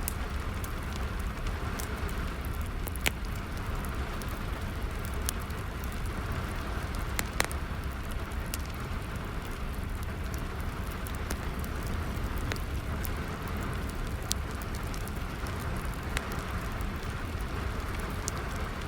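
Steady rain falling together with a crackling wood fire: sharp pops every second or so over the even hiss of the rain, two louder snaps about three and seven seconds in.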